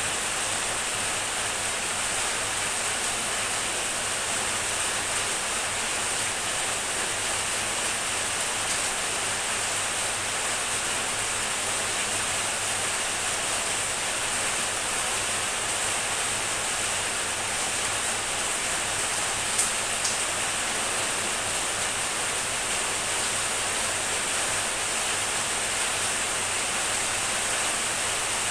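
Heavy rain falling steadily, an even hiss, with a couple of faint ticks about two-thirds of the way through.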